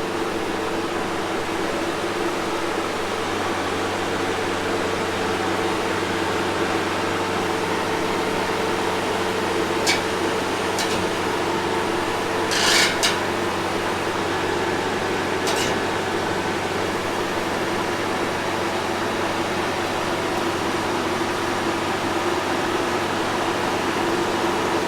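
A steady machine hum, like a motor or engine running evenly, with a few short sharp clicks or rattles near the middle.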